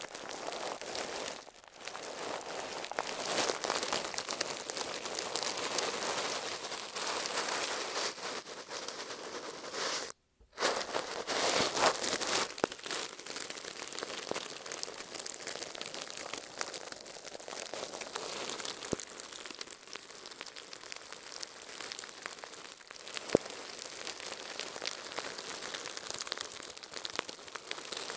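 Shaving brush bristles rubbing over masking tape right at an earphone microphone: a dense, crinkly scratching that drops out briefly about ten seconds in and is softer through the second half.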